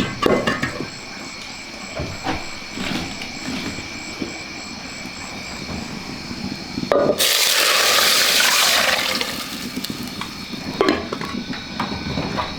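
A loud rush of water starting suddenly about seven seconds in and lasting about two and a half seconds, among scattered knocks and the steady chirping of insects.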